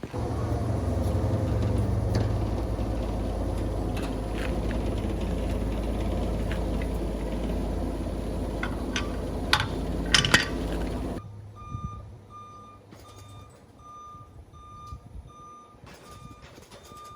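A vehicle engine running steadily, with a few sharp clanks around ten seconds in, cuts off abruptly about eleven seconds in. A reversing alarm then beeps steadily, about one and a half beeps a second, as the vehicle backs up to move the airplane.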